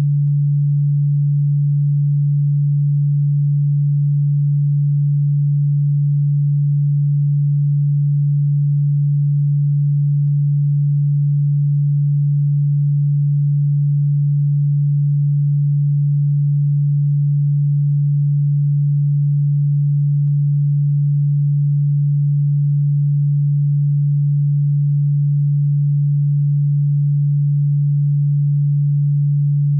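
Steady electronic sine tone held at one low pitch, about 150 Hz, with no change in pitch or level; it is played as an anti-cockroach repellent sound, though what is heard is a low hum rather than an ultrasonic tone.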